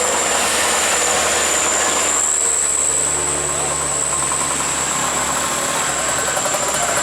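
Engine running steadily at idle, with a steady low hum and a thin high whine over it.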